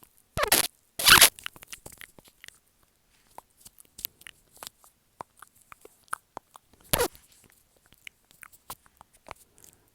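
Close-miked ASMR mouth sounds: scattered wet clicks and smacks of the lips and tongue, with louder bursts about half a second in, about a second in and again about seven seconds in.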